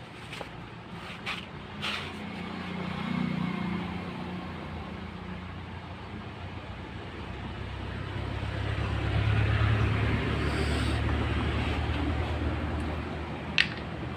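Motor vehicle traffic passing, engine hum swelling and fading, loudest in the middle stretch, with a few sharp clicks or taps, one near the start and one near the end.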